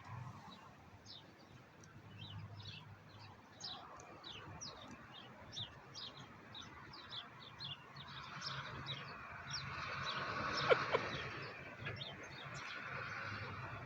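A bird calling outdoors in short repeated chirps, each dropping in pitch, about two a second. A broader noise swells in the middle, with one brief sharp sound about ten and a half seconds in.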